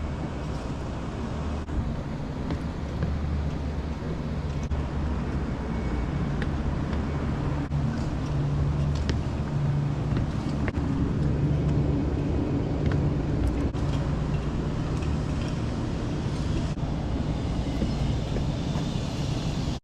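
Steady low rumble of machinery in motion, with a faint hum.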